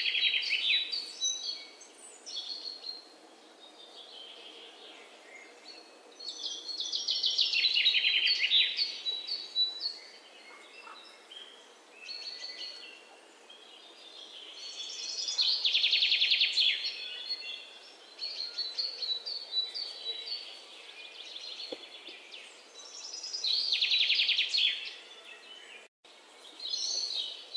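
Birdsong: a bird repeats a long, loud trilling phrase about every eight seconds, with softer chirps in between.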